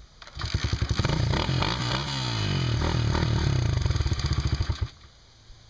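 Dirt bike engine firing and running with a rapid beat, its pitch sweeping up and down as it is revved, then cutting off suddenly after about four and a half seconds.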